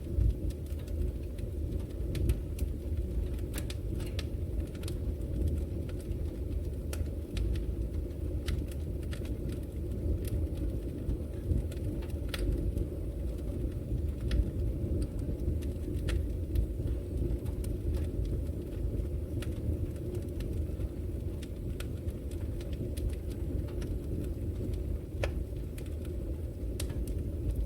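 Wood fire burning in a fireplace: a steady low rumble of flames with frequent sharp crackles and pops from the logs at irregular intervals.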